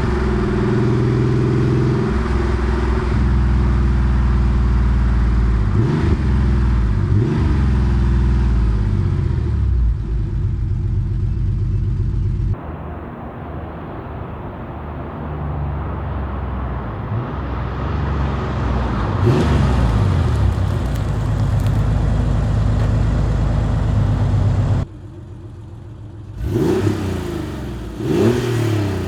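Porsche 964 Carrera 2's air-cooled flat-six exhaust, fitted with a centre straight muffler, running under way with several revs rising through the gears. The sound changes abruptly twice, and near the end there are quick repeated revs.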